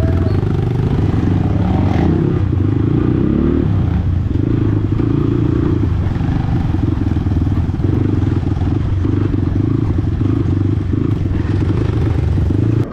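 Dirt bike engine running under way, the pitch climbing as the rider opens the throttle about two seconds in, then holding a steady note.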